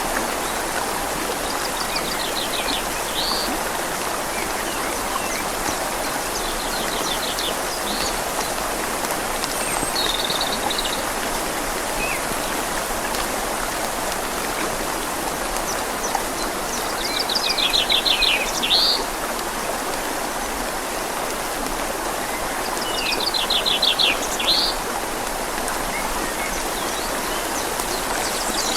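Steady rain falling on leaves over a gently flowing river, a constant hiss of water. Over it a songbird sings a short trilled phrase, a fast run of high notes ending in a sharper note, repeated every five to seven seconds.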